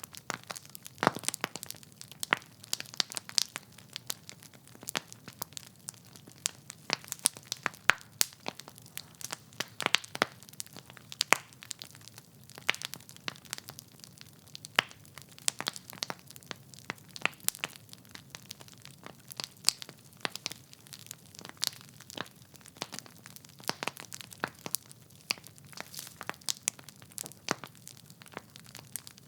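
Wood fire in a fireplace, burning logs crackling and popping in a steady run of sharp, irregular snaps over a soft hiss.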